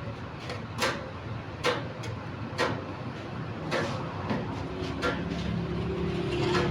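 Sharp knocks about once a second, with a low motor hum with steady tones starting about four and a half seconds in.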